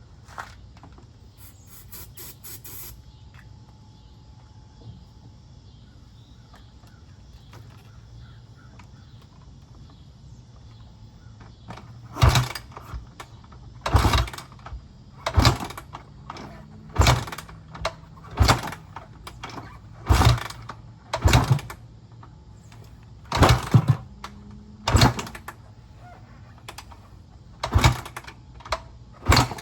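A 2004 Honda CRF250R four-stroke dirt bike being kicked over repeatedly without starting, after a stretch of faint background. Each kick is a loud, short thump, about one every second and a half, roughly ten in all.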